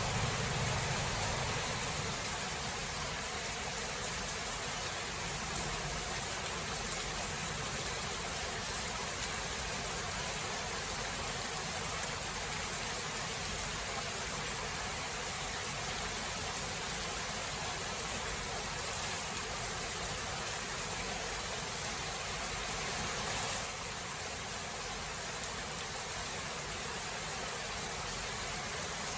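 Steady heavy rain hiss, with the last of a thunder rumble dying away in the first second or so. The rain eases a little about three-quarters of the way through.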